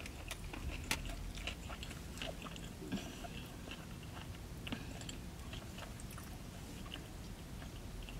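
A person chewing a mouthful of sushi roll with the mouth closed: soft, irregular wet clicks and smacks, the sharpest about a second in.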